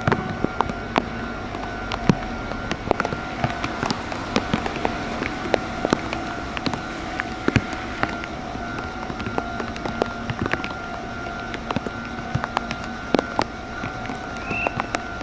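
Meitetsu electric train at a station: a steady hum with a few held tones, overlaid by many irregular sharp clicks and knocks, and a brief high chirp near the end.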